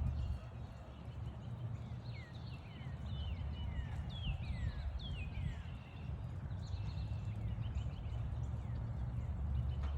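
Wind rumbling on the microphone, with gentle rain pattering around it. A bird gives a run of quick falling whistled notes from about two to six seconds in.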